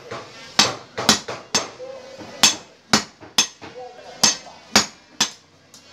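Blacksmiths' hand hammers striking hot metal on an anvil while forging a digging tool: about nine ringing blows at an uneven beat, some close together in pairs.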